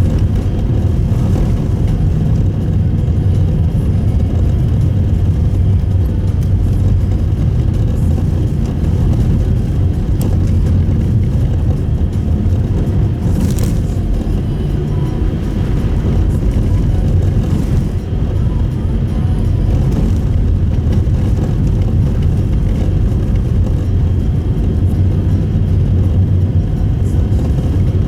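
Steady road and engine noise inside the cabin of a Subaru Impreza Sport (GP7) cruising along, a constant low rumble of tyres and drivetrain.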